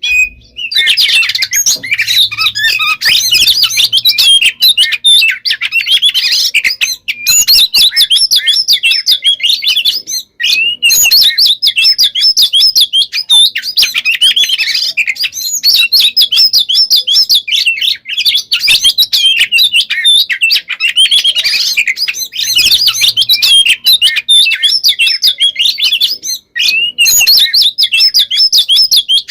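Oriental magpie-robin (kacer) singing a loud, dense, nonstop song of rapid varied whistles and trills. It is broken only by a few brief pauses. This is the 'gacor konslet' style of unbroken song that kacer keepers prize.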